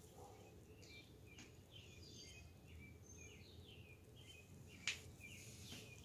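Small songbirds chirping and twittering faintly, many short notes, several falling in pitch, over a low outdoor background hum. A single sharp click just before five seconds in.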